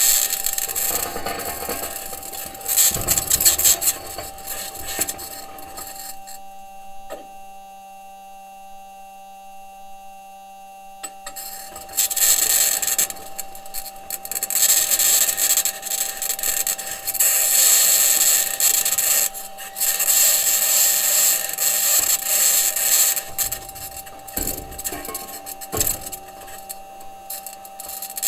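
Perseverance Mars rover driving, recorded from its own body: the metal wheels and suspension grind and scrape over the rocky ground with a high-pitched scraping, under a steady whining tone. The grinding eases to a quieter stretch about six seconds in and resumes loudly about twelve seconds in.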